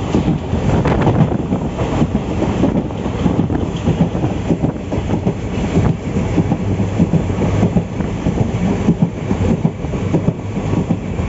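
Passenger express train running on the track, heard from aboard a coach: a loud, steady rumble with a dense rattle of wheels and coach.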